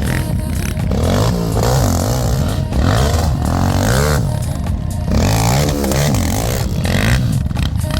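Quad bike engine revving up and down over and over, its pitch rising and falling about once a second.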